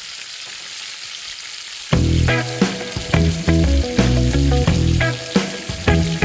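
Food frying in hot oil, a steady sizzle. About two seconds in, background music with a heavy bass beat starts over it and is louder than the sizzle.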